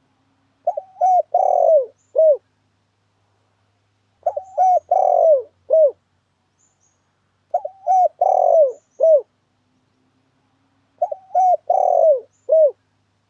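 Spotted dove (tekukur) cooing as a lure call: four matching phrases of four or five coos each, one about every three and a half seconds.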